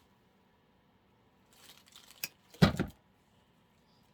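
Artificial floral stems rustling as they are handled, with a click, then a single sharp thump against the work surface about two and a half seconds in.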